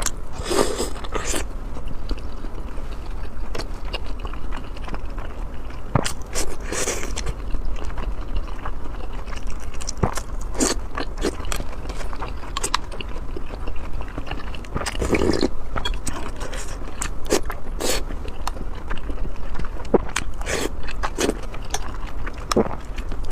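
Close-miked eating: chewing and biting, with irregular sharp mouth clicks and a few louder, longer bites, over a steady low hum.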